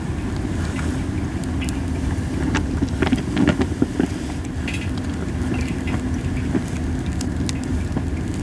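Wood fire of masaki (Japanese spindle tree) branches burning in a fire pan: scattered crackles and pops, busiest about three to four seconds in, over a steady low rumble of wind on the microphone.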